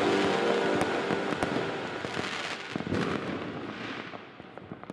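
Fireworks and firecrackers going off in many overlapping bangs and crackles, growing steadily fainter.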